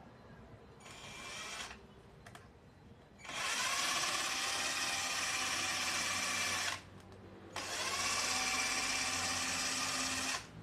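Electric drill or screwdriver running in three bursts: a short one about a second in, then two longer runs of a few seconds each. Each burst spins up quickly to a steady high whine and cuts off sharply.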